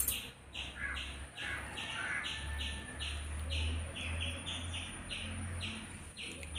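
A small bird chirping, one short high call repeated steadily about two to three times a second.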